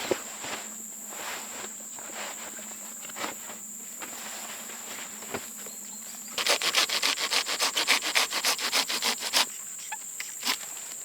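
Insects buzzing steadily at a high pitch, with scattered rustles and small clicks of handling; about six seconds in, a quick run of rubbing and rustling lasts some three seconds.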